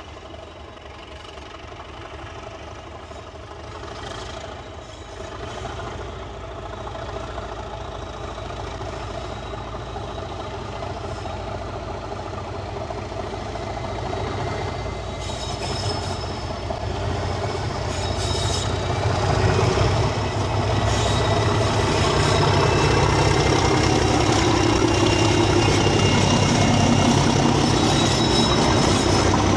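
Diesel locomotive hauling a passenger train approaches and passes at low speed. Its engine rumble grows steadily louder, and from about halfway high steady whining tones join in as the coaches draw level.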